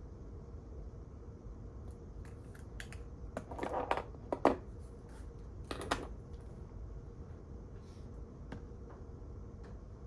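Quiet library room tone: a steady ventilation hum with a faint constant tone, and a short run of small clicks and rustles from desk handling around the middle, one sharper click the loudest.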